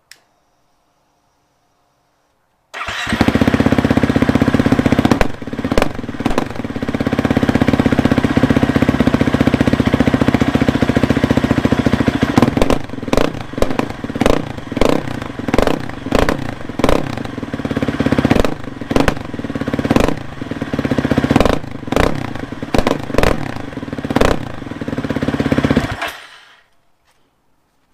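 Husqvarna FE 350s dirt bike's single-cylinder four-stroke engine running loud through an open Pro Moto Billet end cap with only a spark arrestor screen fitted. It comes in suddenly about three seconds in and runs steadily, then from about halfway is revved in a quick string of short throttle blips, stopping shortly before the end.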